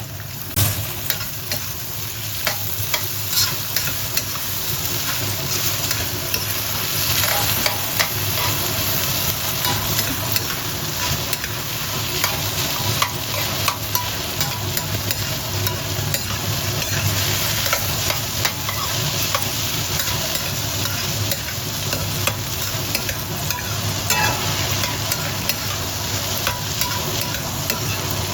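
Green peas and diced cured ham stir-frying in a hot wok: a steady sizzle with frequent scrapes and clicks of the spatula tossing them.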